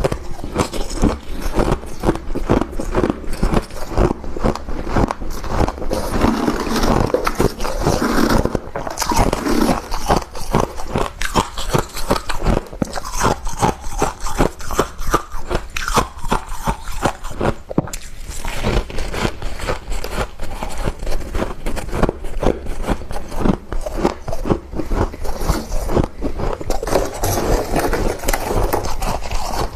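Close-up crunching of thick freezer frost being bitten and chewed: a dense, uneven run of crisp crunches and crackles, several a second.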